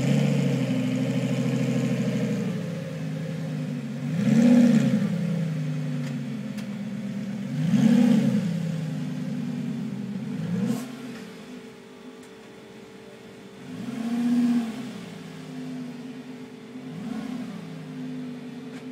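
Lamborghini Gallardo's V10 engine in an underground car park, running low and revved in a series of short blips, each rising and falling in pitch, about every three to four seconds.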